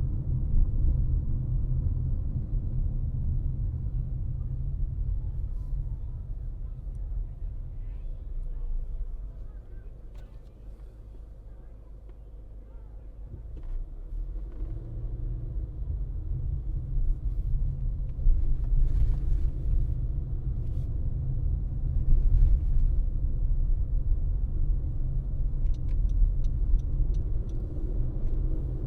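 Low, steady rumble of a car driving, with tyre and engine noise. It drops quieter for a few seconds near the middle, then builds back up.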